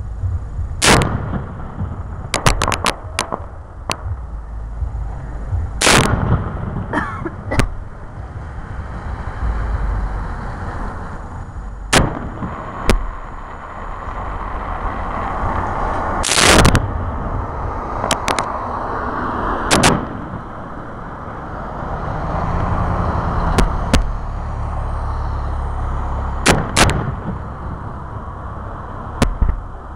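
Aerial firework shells bursting with sharp bangs every few seconds, the loudest about six and sixteen seconds in, and a quick run of crackling reports about two and a half seconds in.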